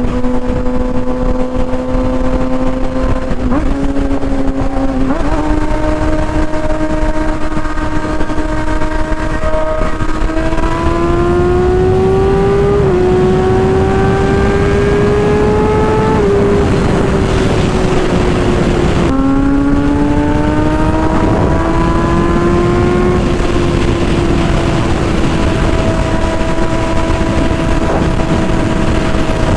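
Kawasaki ZX-6R 636 inline-four sportbike engine through an M4 GP exhaust, running hard at high revs. Its pitch climbs and then steps or drops several times as it changes gear, and it holds a steady note in the last few seconds.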